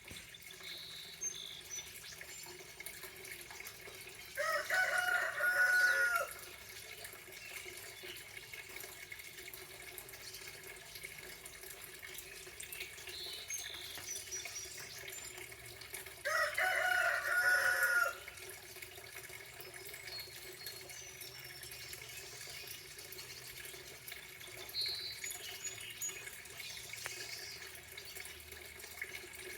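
A rooster crowing twice, each crow about two seconds long and some twelve seconds apart, with small birds chirping faintly in between.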